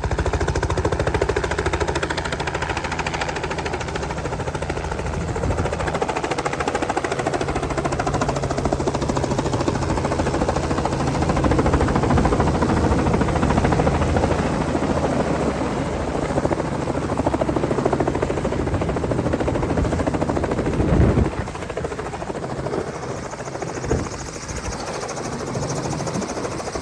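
Helicopter running: a steady, loud drone from rotor and engine with a fast, even beat of blade passes. A sharp thump comes about three-quarters of the way through, and after it the low drone is thinner.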